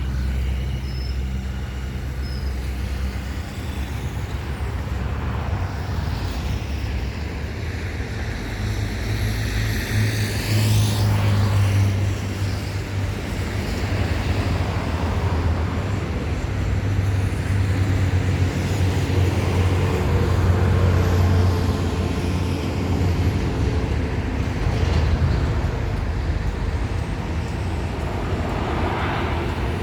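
Road traffic on a city avenue: vehicles passing one after another over a steady low engine rumble, with the closest pass about ten seconds in.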